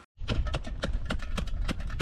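A quick, irregular run of clicks and knocks over a low rumble, starting abruptly just after the start.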